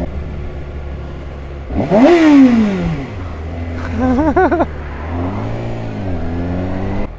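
A 2013 Kawasaki Ninja ZX-6R 636's inline-four engine on the move. Its note climbs sharply about two seconds in and falls away over the next second, the loudest moment. Three quick rises and falls in pitch follow around four seconds in, then a gentler rise and fall near the end.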